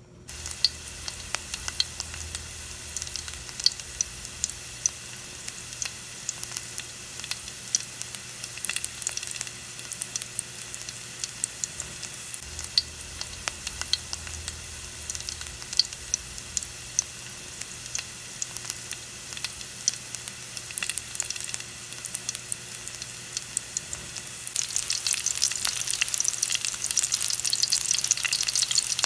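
Garlic frying in hot oil in a pan: a steady sizzle with many sharp crackles. Near the end the sizzle gets clearly louder as sliced red onion goes into the oil.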